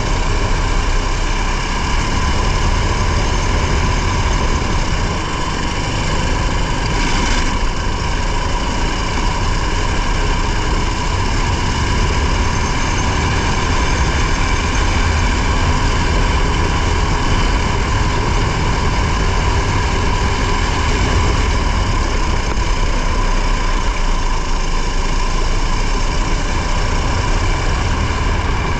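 Competition car's engine running steadily at an unchanging pitch, heard from inside the car, with a brief hiss about seven seconds in.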